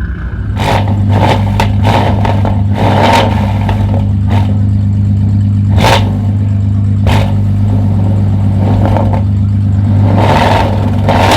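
Tuned car engine revving and held high, with sharp exhaust pops and bangs cracking out irregularly over the running engine.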